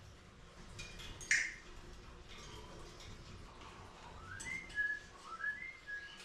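Pet birds in a mixed parrot and finch aviary: a sharp, falling chirp about a second in and scattered short chirps, then near the end a run of clear whistled notes stepping up and down.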